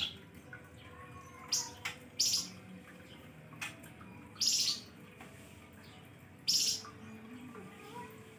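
Flamboyan songbird singing in short, sharp, high-pitched trilled bursts, four of them about every two seconds.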